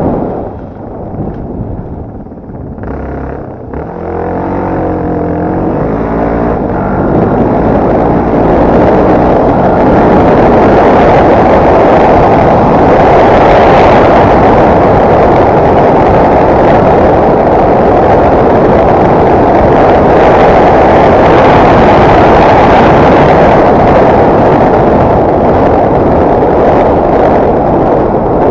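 Off-road motorcycle engine at low revs for the first few seconds, its note wavering, then opening up about seven seconds in and running loud and hard under sustained throttle.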